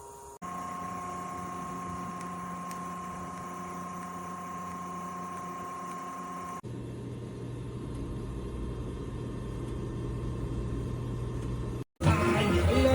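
Small electric fan of a portable evaporative air cooler running with a steady hum, in two takes cut together: the first with a higher whine, the second lower and more rushing. Music and a voice come in near the end.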